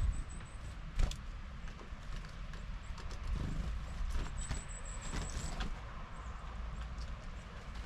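Small birds at a garden feeder: scattered taps and knocks, with a few short, thin, very high calls, over a low rumble of wind on the microphone.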